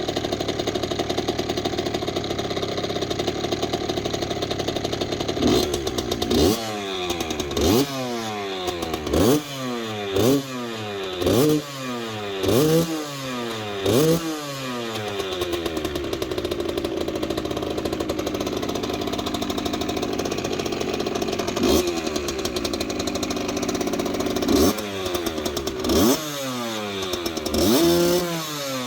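Kawasaki KX65 two-stroke single-cylinder engine idling, then revved in short throttle blips, each rising sharply and falling back to idle. The blips come in two runs, about seven in the middle and a few more near the end, as the engine warms up after a cold start in frost.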